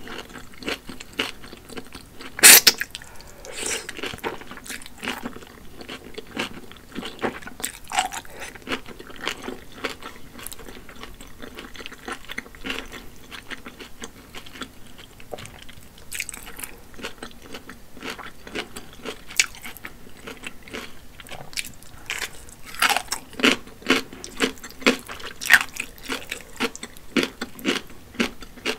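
Close-miked eating sounds: chewing and biting wide, saucy pull noodles and crunching kimchi, with many short wet mouth clicks. A loud sharp click comes about two and a half seconds in, and a quick run of louder smacks fills the last few seconds.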